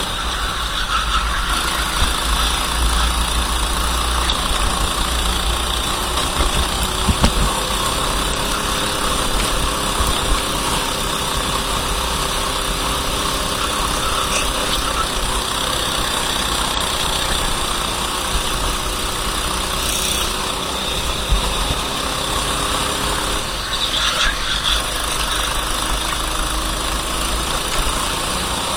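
A racing kart's engine running steadily, its pitch rising and falling gently, under a constant hiss of rushing air and wet spray.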